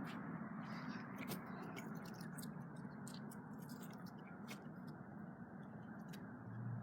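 Faint, scattered light clicks and ticks of small wooden sticks being handled and knocked against one another, over a steady low hiss.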